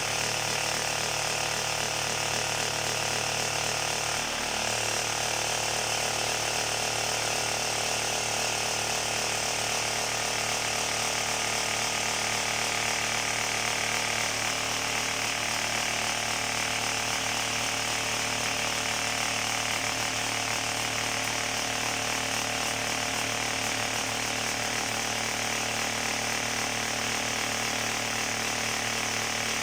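Concrete vibrating table running steadily with a continuous mechanical rattle over a motor hum, shaking a form of freshly poured concrete so that it settles and spreads. The low hum shifts slightly about four seconds in.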